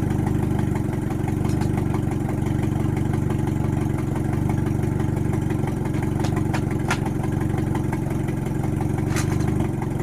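Renault Clio Williams' four-cylinder engine idling steadily through a mocked-up exhaust pipe that has small unwelded holes in it. A few faint clicks come in the second half.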